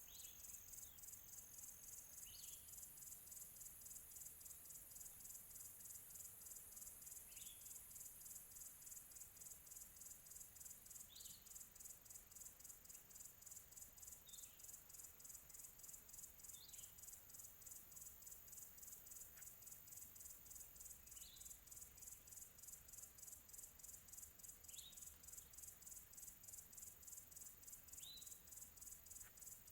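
Faint countryside night chorus: crickets chirping steadily in a fast, even pulse, with a bird giving a short falling call every few seconds, about ten times.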